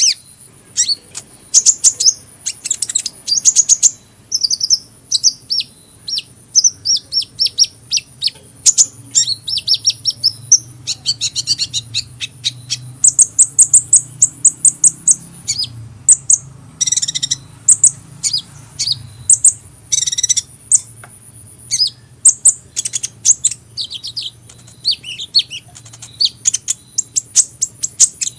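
Sunbird (the bird Indonesian keepers call 'kolibri') singing: rapid high-pitched chirps and twittering trills in quick bursts with short pauses between them.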